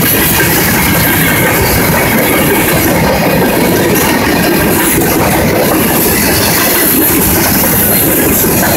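Covered hopper cars of a freight grain train rolling past close by: a loud, steady rumble of steel wheels on the rails.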